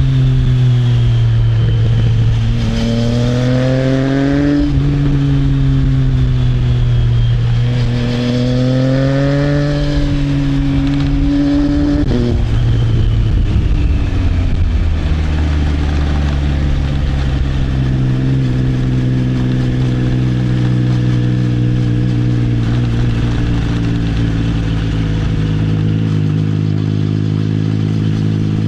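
Triumph Trident 660 inline three-cylinder engine breathing through an Arrow aftermarket exhaust, heard from the rider's seat. The revs climb twice, each time dropping sharply as a gear is taken. The engine then settles into a steady cruise.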